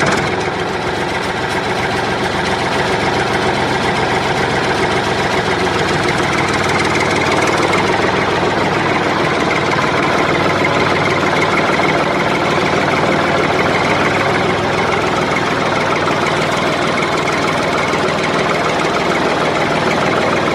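Tractor engine running steadily, a stock sound effect dubbed over the footage.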